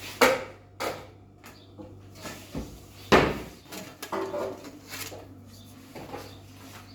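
Kitchen cupboard doors and cookware knocking and clattering as someone rummages for a baking pan: a series of separate knocks, the loudest about three seconds in.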